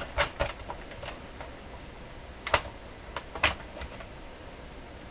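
A handful of sharp clicks and knocks from the plastic case of a portable transistor radio as its back screw is undone and the case is popped open.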